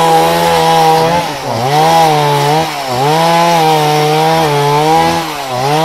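Chainsaw running at high revs, cutting wood; its engine pitch dips briefly and recovers three times.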